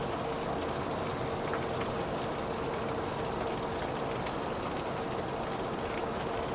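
Steady rain falling and pattering on surfaces, with scattered drop ticks and a steady hum underneath.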